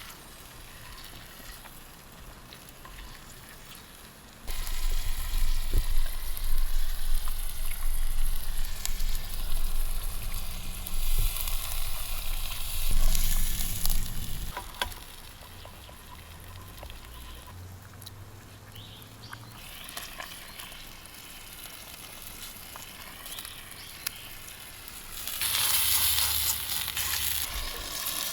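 Food sizzling in a pan over a wood fire, louder for a stretch from about four seconds in and again near the end, with birds singing faintly.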